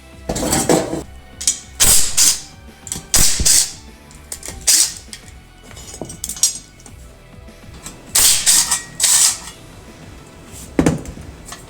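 Hand tools and metal parts working on a small single-cylinder minibike engine during teardown: short, irregular bursts of mechanical clicking and clatter, about seven of them with pauses between, some sounding like a ratchet wrench being worked.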